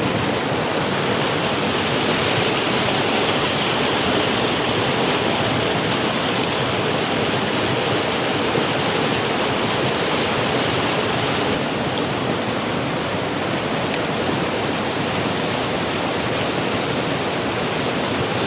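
Mountain creek water rushing steadily, with two brief clicks, one about six seconds in and one near fourteen seconds.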